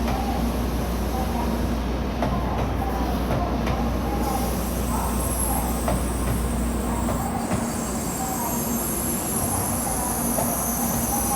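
N700-series Shinkansen train starting to pull out of the station, with a steady rumble and a high electric whine that comes in about four seconds in.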